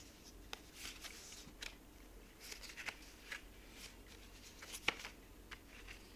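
Paper being handled: light rustles and scattered soft clicks, the sharpest about five seconds in.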